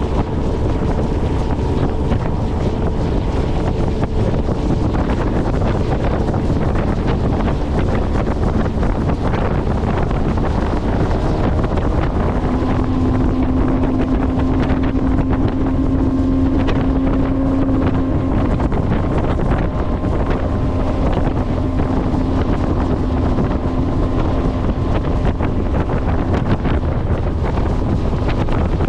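Motorboat engine running steadily underway, with wind buffeting the microphone.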